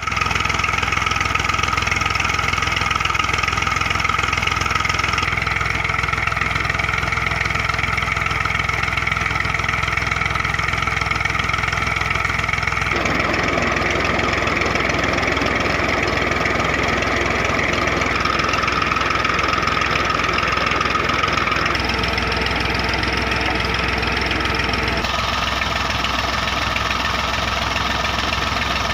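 Massey Ferguson 240 tractor's three-cylinder diesel engine idling steadily with a diesel clatter. Its tone shifts abruptly several times.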